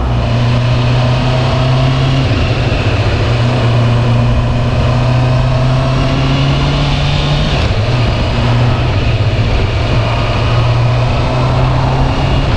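Honda CB650R inline-four engine running through its standard exhaust while the motorcycle is ridden at a steady pace. The engine note shifts briefly about two seconds in and again near eight seconds.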